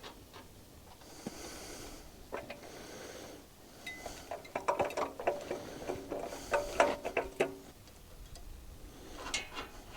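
Runs of sharp mechanical clicking and clanking, densest and loudest from about four to seven and a half seconds in, with a few lone clicks before and after.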